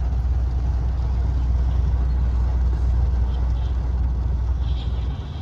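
Steady low rumble and noise of a moving vehicle, starting suddenly and easing off near the end.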